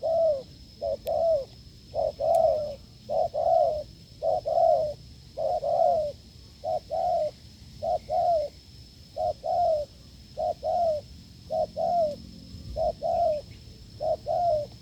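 Spotted dove cooing strongly, a steady run of short low coos mostly in pairs, a pair a little more than once a second.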